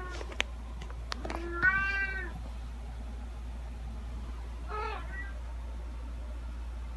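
Domestic cat meowing, two calls: a loud, drawn-out meow about one and a half seconds in and a shorter one a little before the five-second mark. A few sharp clicks come just before the first meow, over a steady low hum.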